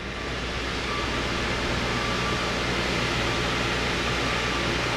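Steady running machinery: a low hum under an even hiss, growing slightly louder in the first second and then holding level.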